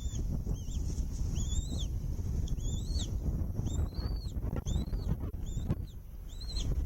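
Bald eagle chirping calls at the nest, a string of high, arched chirps, about two a second. A low wind rumble on the microphone runs underneath.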